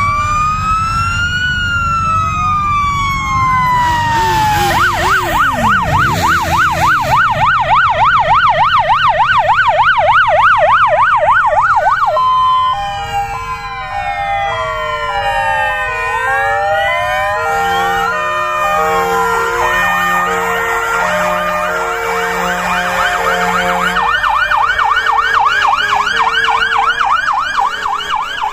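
Several fire engine sirens sounding at once. A slow rising-and-falling wail gives way to a fast yelp about four seconds in, then to overlapping two-tone hi-lo patterns and sweeps, and a fast yelp returns near the end, over a low rumble.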